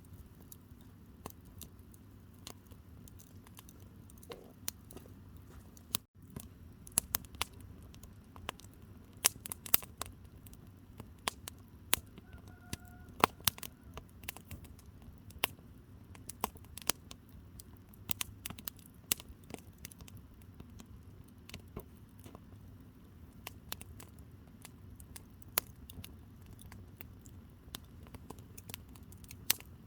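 Firewood burning in a campfire: sharp, irregular pops and crackles over a low, steady rumble of the flames. The pops come thickest in the middle, after a brief drop-out about six seconds in.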